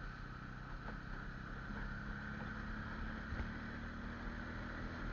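Motorcycle engine running steadily while riding, with rushing air noise; a low engine note becomes more prominent a couple of seconds in.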